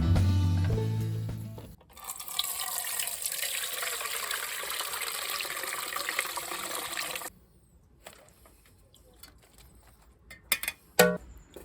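Music fading out, then running or pouring water for about five seconds that stops abruptly, followed by quiet with a few sharp knocks near the end.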